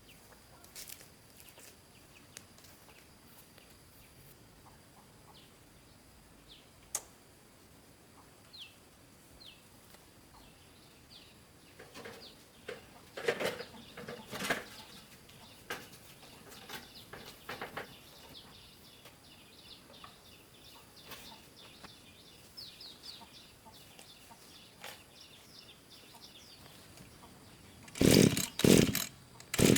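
Quiet outdoor background with scattered short bird chirps and a few knocks and clatters. Near the end a small two-stroke chainsaw engine fires in three short loud bursts as it is started.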